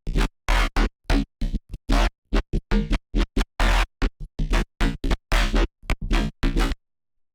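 Serum software synthesizer playing a wavetable patch built from an image: a fast, stuttering run of short, bright notes, each with a deep bass underneath. The notes stop abruptly near the end.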